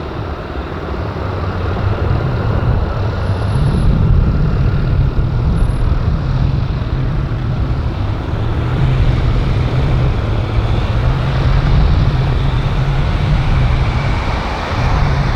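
Aircraft engines running steadily on the airfield: a loud, continuous rumble with a faint whine rising in pitch near the end.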